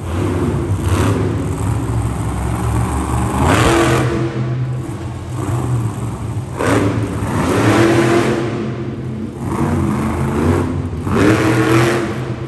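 Monster truck engine revving hard in repeated surges over a steady running note, three big rises and falls in pitch, during a freestyle run.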